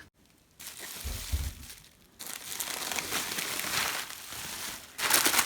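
Packaging being unwrapped by hand, crinkling and rustling, with a low thump about a second in and the crinkling loudest near the end.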